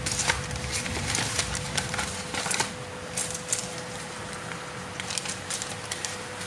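Scattered light clicks and taps, several a second in the first half and sparser later, over a steady hum with a constant tone.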